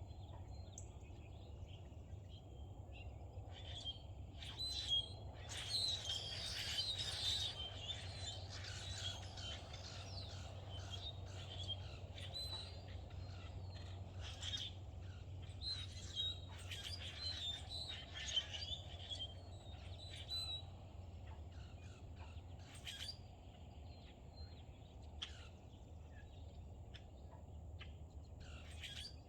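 Wild songbirds chirping and singing, many short high calls overlapping, busiest in the first two-thirds and thinning out later, over a steady low hum.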